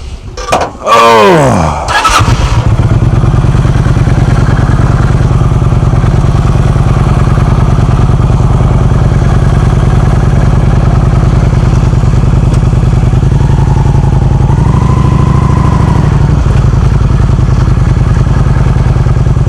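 Motorcycle engine starting: a short whine falling in pitch, then the engine catches about two seconds in and idles steadily and loudly, close to the microphone.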